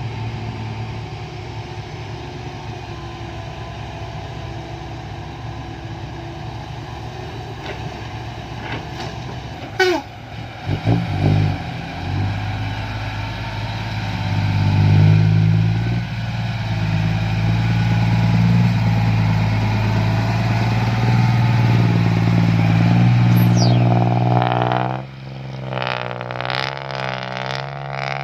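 Heavy diesel engines running at an earthworks site: a loaded dump truck's diesel engine pulls hard and loud for over ten seconds from about twelve seconds in, then drops away near the end. A metal clank sounds about ten seconds in.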